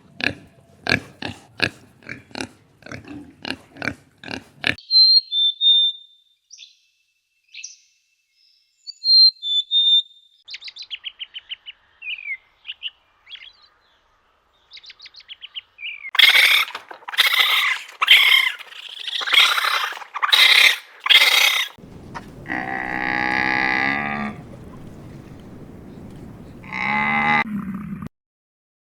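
Several different animal calls in turn: a quick run of short grunts for the first few seconds, high chirps and squeaks in the middle, then a series of loud harsh calls and a long drawn-out pitched call near the end.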